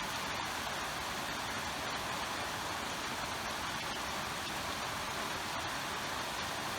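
River water rushing steadily through a rocky gorge, an even, unbroken noise.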